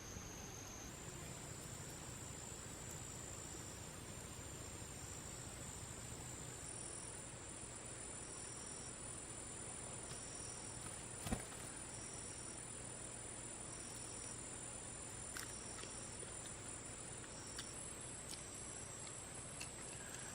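Forest insects shrilling: a steady high-pitched drone with short, evenly repeated chirps about once a second. A single sharp click about eleven seconds in.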